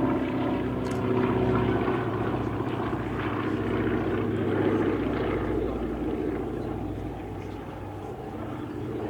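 Radial-engine propeller aircraft flying past with a steady engine drone that grows fainter over the last few seconds.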